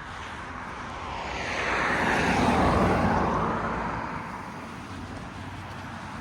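A vehicle passing by: its noise swells to a peak a couple of seconds in, drops in pitch as it goes past, then fades away.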